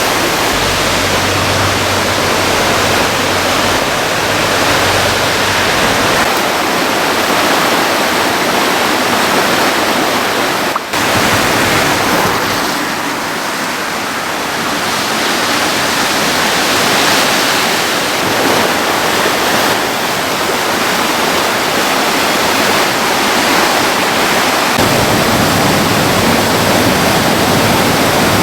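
Storm-swollen river rushing in flood, a loud steady wash of water with a momentary break about eleven seconds in.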